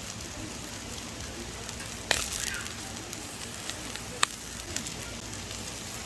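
Food sizzling over a camp grill, a steady hiss with small crackles and two sharp pops, about two seconds in and again about four seconds in.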